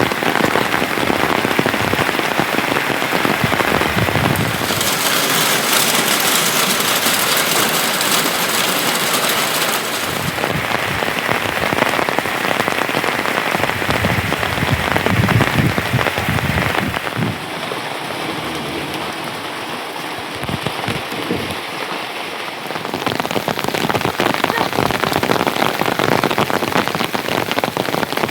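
Heavy rain falling on a hard surface, a dense, steady patter of drops that grows brighter and harder for a few seconds early on and eases somewhat past the middle before picking up again.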